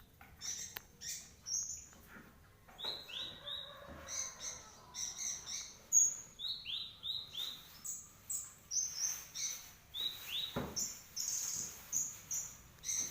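Kolibri ninja sunbird singing hard, a rapid, continuous run of short, high chirps, many sliding quickly downward in pitch, in quick clusters. About six seconds in there is one sharper, louder click.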